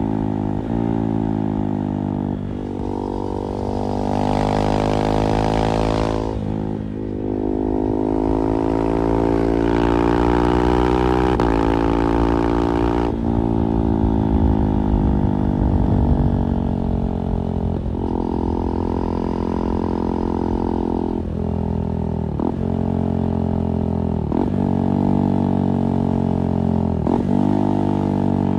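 2024 KTM 390 Duke's single-cylinder engine through an IXIL slip-on exhaust under way, pitch climbing under throttle and broken by short cuts at quickshifter gear changes. In the second half there are several quick shifts in a row, each a brief jump and dip in pitch.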